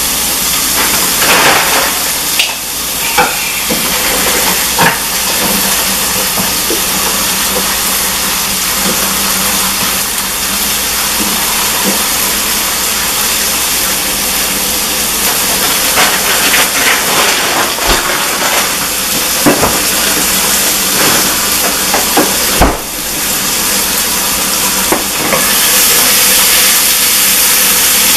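Sliced okra and sausage frying in hot oil on a gas stove: a steady sizzling hiss, with scattered clicks and knocks of cookware and utensils. The hiss grows a little louder near the end.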